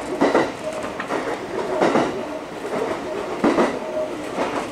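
Electric commuter train running along, heard from inside the front car: wheels clack over rail joints about every second and a half over a steady running rumble, with a faint motor whine.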